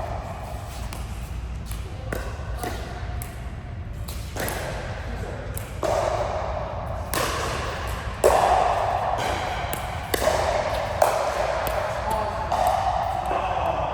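Voices and calls echoing in a large hall, growing louder about halfway through, broken by sharp hits or knocks from play, the loudest two about a third and two thirds of the way in.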